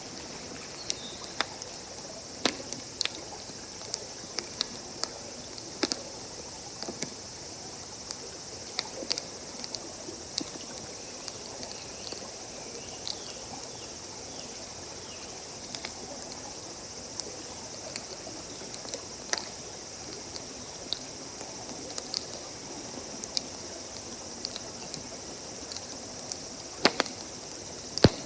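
Wood campfire crackling, with irregular sharp pops and a louder pop near the end, over a steady high chirring of insects.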